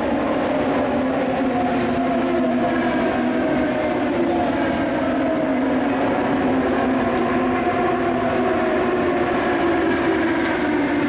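Steady drone of engines running, with several pitches that waver slowly up and down, typical of race cars lapping a speedway.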